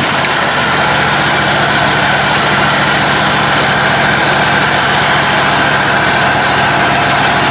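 Engine of a modified, lifted riding lawn tractor (mud mower) running steadily, with no revving.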